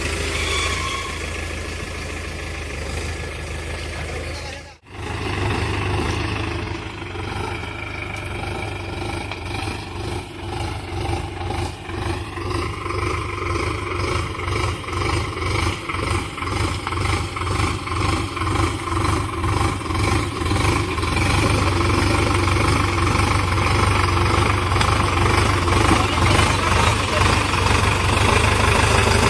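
Sonalika Tiger tractor's diesel engine running, cut off briefly about five seconds in. After the break it runs with a pulsing beat that grows steadily louder.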